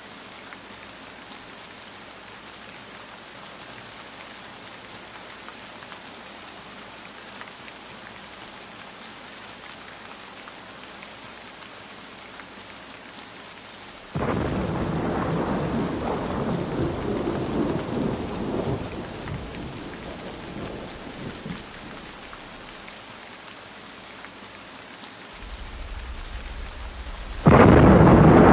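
Steady rain falling. About halfway through, a sudden loud thunderclap rolls and fades over several seconds. Near the end a second, louder peal of thunder builds and breaks.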